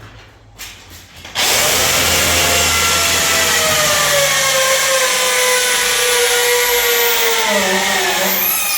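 An electric power tool, drill-like, switches on about a second and a half in and runs loudly under load. Its motor note slowly falls in pitch, then dips briefly near the end.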